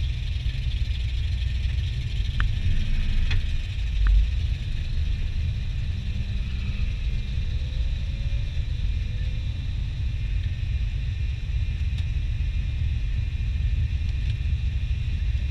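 Turbocharged 4.8-litre LS V8 idling with a steady low rumble, heard from inside the car's cabin, with a brief swell about three to four seconds in.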